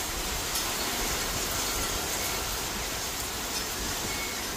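Heavy thunderstorm rain pouring steadily, an even hiss with no breaks.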